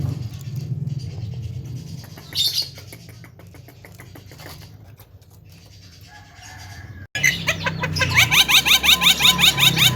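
Javan myna calling in a fast, loud run of repeated rising chirps, about five a second, starting about seven seconds in. Before that there are only quieter sounds: a low rumble, a brief burst, and a run of soft rapid ticks.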